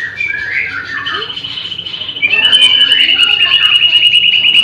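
Songbirds chirping with short, varied notes, then about two seconds in a louder, high, rapid trill of about ten even notes a second takes over.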